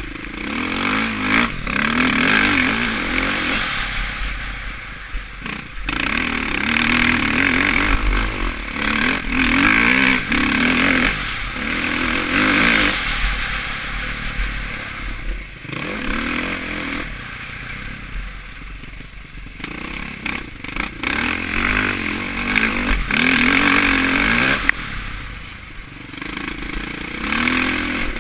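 Suzuki RM-Z450's single-cylinder four-stroke engine revving hard and backing off again and again every few seconds as the bike is ridden around a motocross track, with low wind rumble on a helmet-mounted camera's microphone and a few short knocks from the bike.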